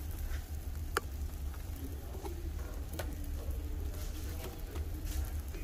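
Grilled cheese sandwiches frying in butter in a nonstick pan, a soft crackling sizzle, with a couple of light clicks from the spatula about a second and three seconds in, over a steady low hum.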